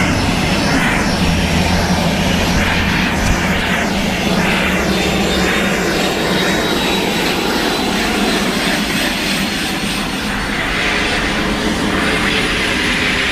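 Steady engine drone with a thin high whine, running at an even level.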